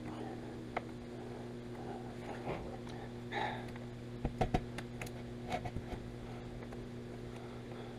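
Scattered light clicks and taps of hands and tools working a windscreen glass into its rubber seal, with a small cluster of sharper knocks about four to five seconds in, over a steady low hum.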